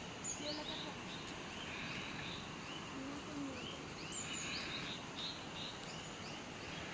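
Several birds chirping in short, quick calls, many overlapping, over a steady background hiss.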